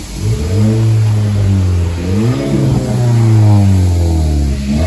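Renault Mégane GT engine revved with the car standing: the revs climb sharply just after the start, blip up and back about two seconds in, hold high, then drop away near the end.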